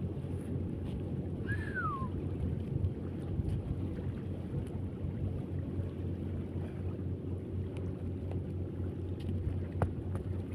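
A motor running with a steady low drone. About a second and a half in there is a short falling whistle, and a sharp click comes near the end.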